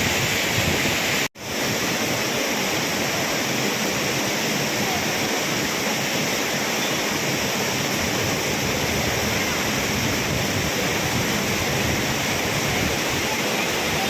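Courtallam Falls in flood: a loud, steady rush of heavy water pouring down. The sound cuts out for an instant about a second in, then carries on unchanged.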